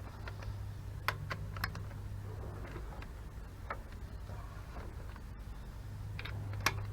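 Scattered sharp clicks and taps, about six of them at irregular intervals, the loudest near the end, like hand tools or small metal parts being handled, over a low steady hum.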